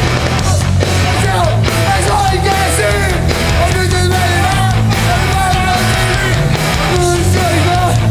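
Hardcore punk band playing live at full volume, with vocals over the band.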